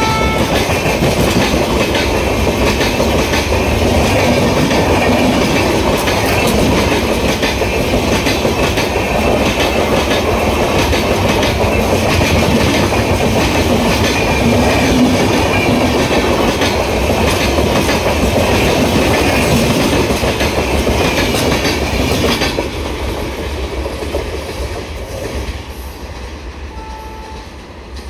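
Express train of LHB passenger coaches passing close by at speed: a steady rumble and rattle of the wheels on the rails, with clickety-clack as the wheels cross rail joints. It drops off abruptly about 22 seconds in and dies away over the last few seconds.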